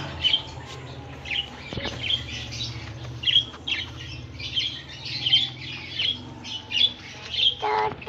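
Small birds chirping: short, high chirps repeated about two to three times a second, over a low steady hum.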